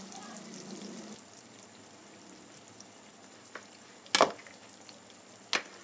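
Masala-coated brinjal slices shallow-frying in oil in a kadhai, a soft steady sizzle that drops lower after about a second. Two sharp clicks come about four seconds in and again near the end.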